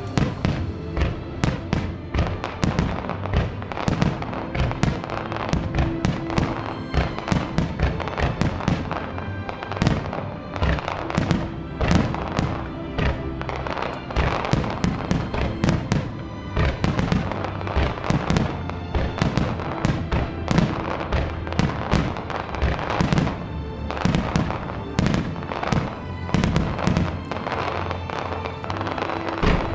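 A continuous barrage of aerial fireworks shells bursting, several sharp reports a second, over accompanying music with held tones.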